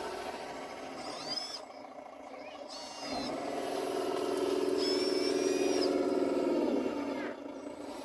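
A radio-controlled model construction machine running: a steady motor hum with a high whine above it, growing louder about three seconds in and dropping back near the end.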